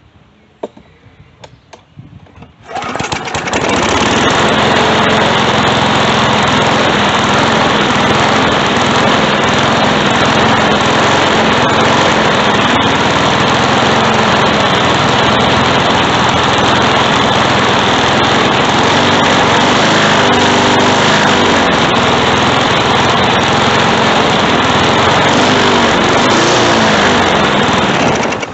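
Briggs & Stratton 140–148cc lawn mower engine starting about three seconds in and running steadily at speed, then shutting off at the end.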